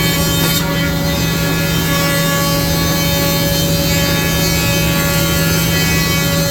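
Wood planer running steadily under load, its cutterhead taking boards down with a constant hum and a dense, hissing cut.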